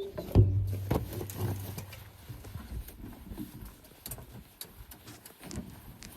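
A scatter of irregular knocks and clunks, with a low steady hum for about the first two seconds.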